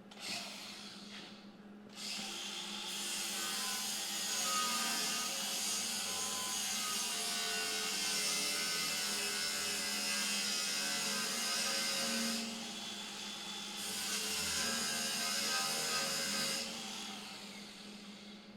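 Power tool working metal in two runs, one of about ten seconds and then, after a short break, one of about three seconds, with a shifting whine under a loud hiss.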